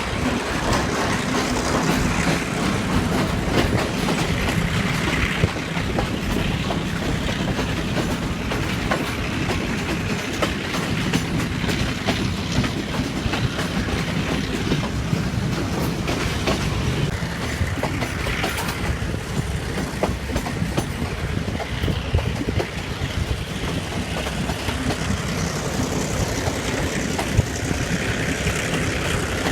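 Passenger train hauled by an EMD Class M2c diesel locomotive running at speed, its wheels clacking over rail joints in a steady clatter.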